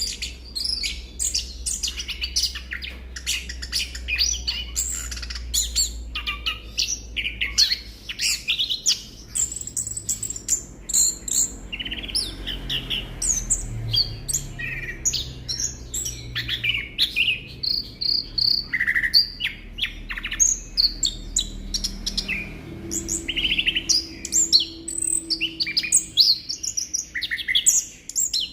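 Chestnut-backed thrush (anis kembang) singing a rapid, nearly unbroken run of varied chirps and whistles, the rolling song used to spur other males of its kind to sing. A faint low hum lies underneath.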